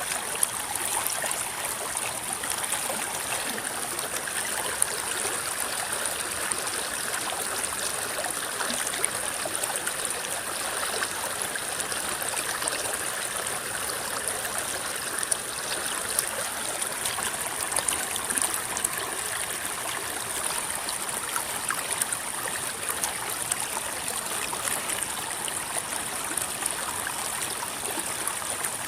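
River water flowing over stones, rippling and trickling steadily with many small splashes and a steady high hiss above it.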